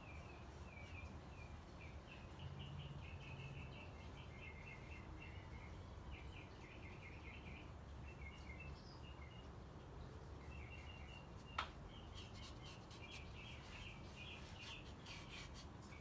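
Small birds chirping faintly in the background, a steady stream of quick high chirps over a low hum, with a single sharp tap a little before the end.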